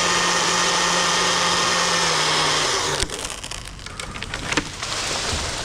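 Chainsaw running at full throttle through a cut, then let off so it winds down about halfway through. The wood then cracks and splinters as the cut piece breaks away, with a low thud at the very end.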